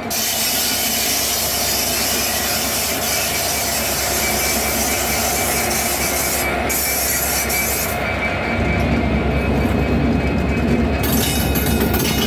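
Freight train running along the track, with wheel and rail noise from the wagons. About eight seconds in, the sound turns deeper and heavier as the high hiss drops away.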